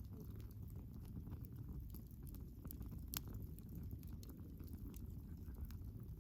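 Wood fire burning, with a steady low rumble and frequent small crackles and pops, one sharper pop about three seconds in.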